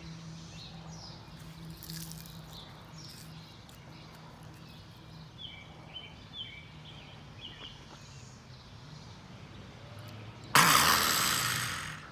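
Outdoor background with a steady low hum and short repeated bird chirps in the middle. About ten and a half seconds in, a loud rushing burst of noise starts suddenly, lasts over a second and fades out.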